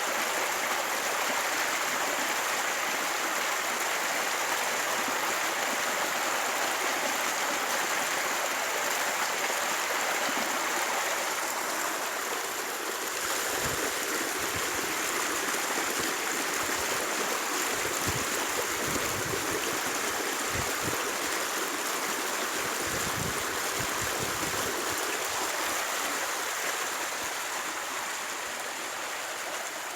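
Steady rushing of flowing water, like a stream, with a few low bumps around the middle.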